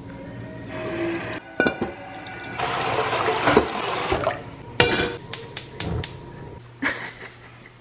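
Kitchen tap running for a second or two about midway, amid knocks and clinks of pots and dishes being handled.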